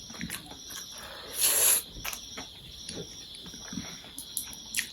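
Eating sounds at a mukbang table: small clicks of chewing and utensils and one short, loud slurp of noodles about a second and a half in. Crickets chirp steadily behind.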